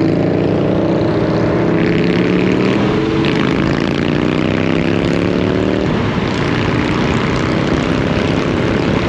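Vehicle engine accelerating, its pitch climbing steadily and dropping back at two gear changes, about three and six seconds in.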